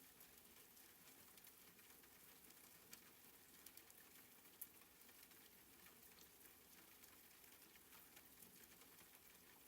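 Faint soft rain: an even hiss with scattered drop ticks, one a little sharper near the middle.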